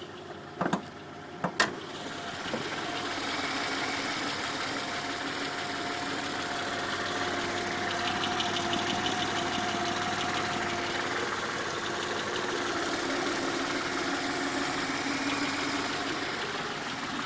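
Subaru XT6's 2.7-litre flat-six engine running with a repetitive knock, which the owner believes is rod knock. Two sharp clicks sound about a second apart near the start, and the engine gets louder after that.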